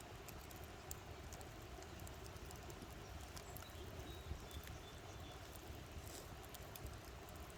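Campfire crackling faintly: scattered small pops and snaps of burning wood over a steady low rumble.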